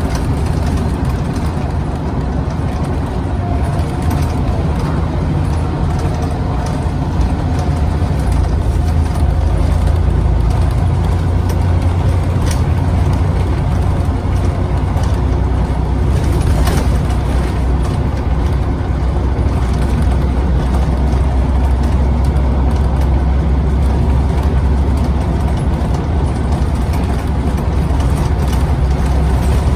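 Scania CN94UB OmniCity bus diesel engine running under way, heard from on board with road and body noise. It gets a little louder about nine seconds in, and a couple of brief rattles come through.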